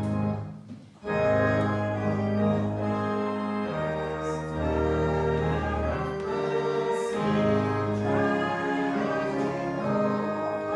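Organ playing a hymn in long held chords for the harvest march, with a short break about half a second in, and voices singing along.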